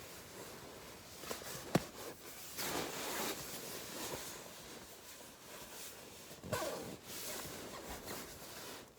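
Fabric rustling and gear being handled, with a sharp click a little under two seconds in.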